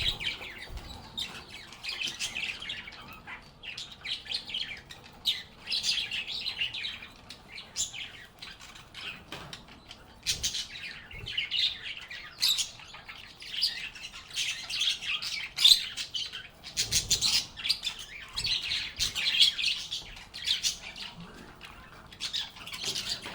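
A group of lovebirds chirping and chattering continuously, many short, high, overlapping calls, with a brief low thump about two-thirds of the way through.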